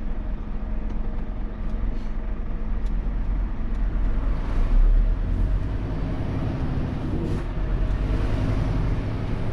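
Scania truck driving, its engine and road noise heard from inside the cab as a steady low rumble.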